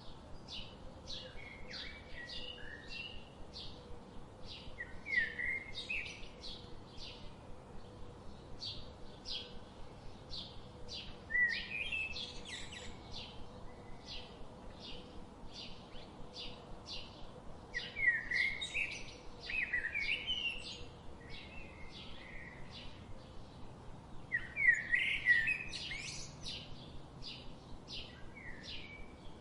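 Songbirds singing: a steady run of short, high chirps about two a second, with louder warbling phrases breaking in every few seconds.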